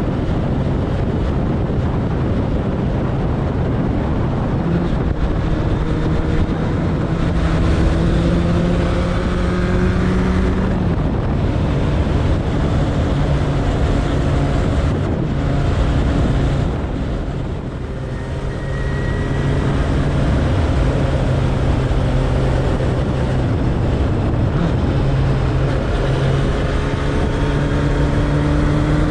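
Suzuki Bandit 1200's inline-four engine running while riding, with wind rushing over the microphone. The engine note rises in places, eases off briefly about two thirds of the way through, then picks up again.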